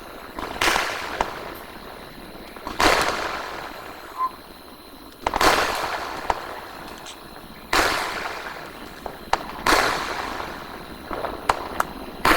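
Sky shot aerial fireworks going off: five sharp bangs about two to two and a half seconds apart, each trailing off in a fading echo, with a few small cracks near the end.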